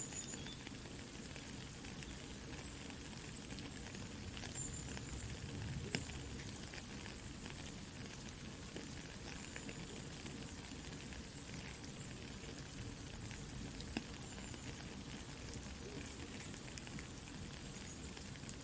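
Soft rain falling with a crackling campfire: a steady hiss of rain laced with small crackles and a few sharper pops of burning wood, the loudest about six seconds in.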